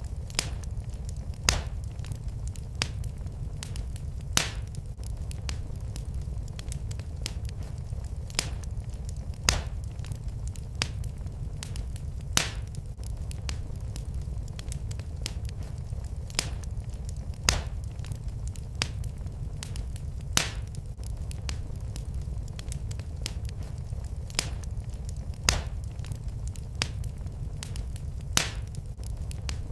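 Wood fire in a fireplace crackling, with sharp pops every second or two over a steady low rumble.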